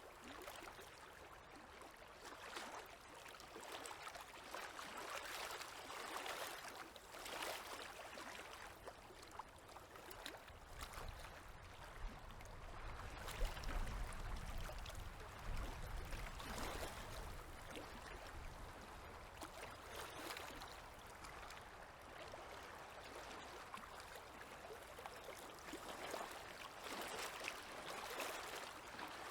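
Small river waves lapping at the shore, a soft, steady wash that swells gently every second or two. A low rumble runs underneath for several seconds in the middle.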